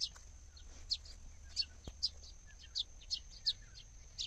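Birds chirping: short high notes, each dropping quickly in pitch, repeated about twice a second. A faint steady high-pitched whine runs underneath.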